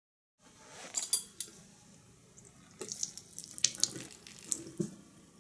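Liquid splashing and trickling, like water from a tap, starting about half a second in, with a run of sharp splats between about 3 and 5 seconds in.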